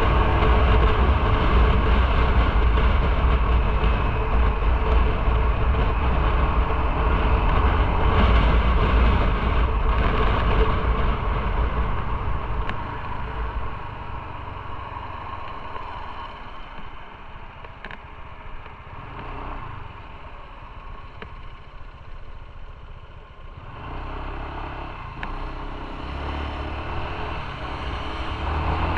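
Motorcycle on the move: engine and wind rush at riding speed with heavy low rumble, dying down to a much quieter stretch about halfway through, then building again near the end.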